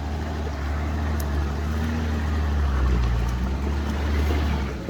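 Four-wheel-drive vehicle's engine running low and steady as it crawls over an obstacle, swelling a little about three seconds in and again near the end.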